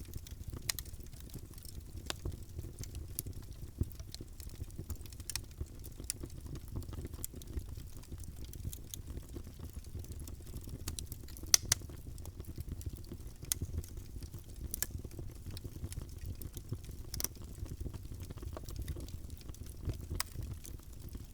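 Fireplace fire crackling: irregular sharp pops and snaps over a steady low rumble of the flames, with one louder pop about halfway through.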